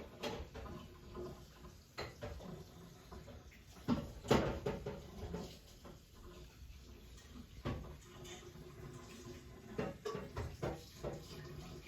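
Scattered household knocks and clatter, the loudest about four seconds in.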